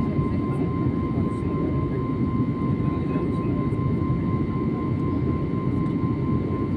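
Steady cabin noise of a jet airliner in flight: an even low roar, with a thin steady high whine above it.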